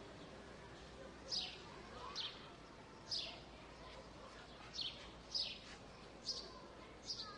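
A small bird calling with short, high chirps that fall in pitch, about eight of them at uneven intervals, roughly one a second.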